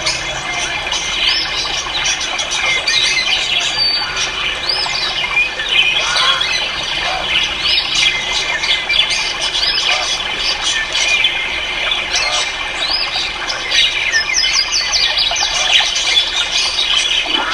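Many caged birds calling at once: a dense, unbroken chatter of overlapping chirps, squeals and squawks.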